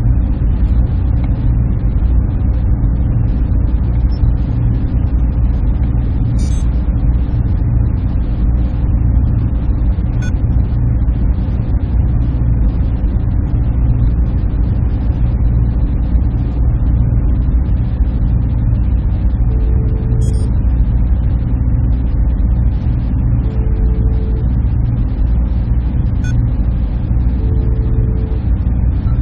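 Server room ambience: the steady hum of server cooling fans and air conditioning, with a strong low drone. A faint short tone sounds three times in the second half, about four seconds apart.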